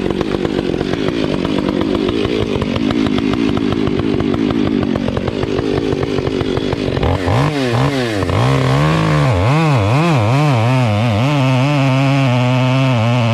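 Chainsaw running. About seven seconds in it gives way to a loud pitched drone whose pitch wavers up and down before settling.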